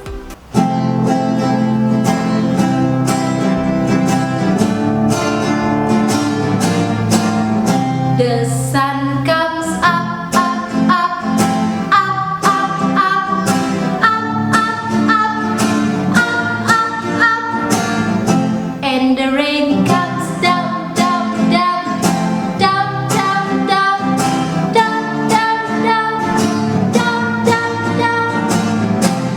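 A song with acoustic guitar strumming a steady accompaniment, and singing joining the guitar about nine seconds in.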